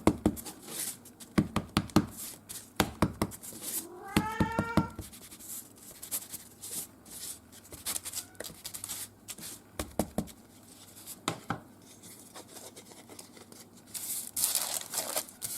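Hands working with a craft foam stamp, ink pad and paper: a run of short taps and clicks, with rustling near the end. About four seconds in, a pet gives one short rising call.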